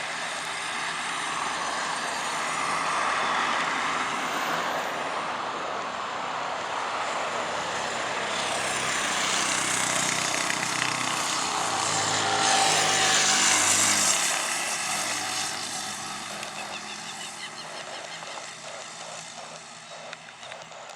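ATR 72-600 turboprop's engines and propellers running as the aircraft passes. The sound builds to its loudest about 12 to 14 seconds in, then fades away.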